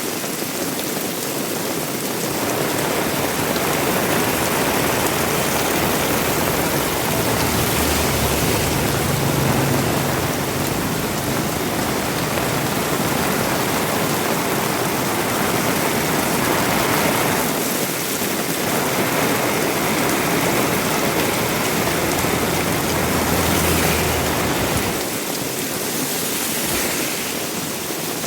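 Heavy rain falling steadily, a dense even hiss. A low rumble swells under it twice, about a third of the way in and again near the end.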